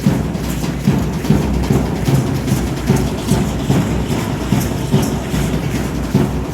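Aztec dance drumming: a large drum beating a steady rhythm, with a rattling clatter over the beat.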